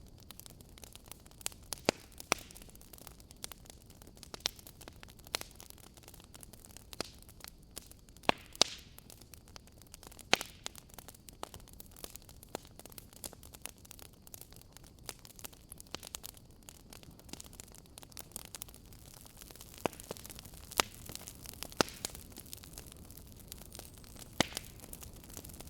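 Wood fire in a fireplace crackling, with sharp pops at irregular intervals over a low steady hiss.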